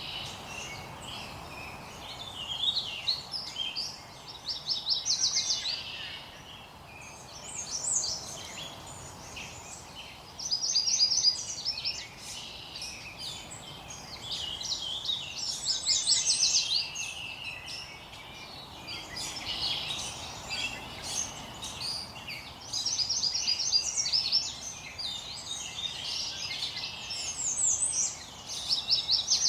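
Songbirds singing, with short trilled phrases repeating every few seconds, over a faint steady hiss.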